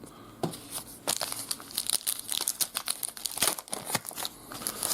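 A trading-card pack wrapper crinkling and tearing as it is opened: a run of sharp crackles and small snaps that gets busier about a second in.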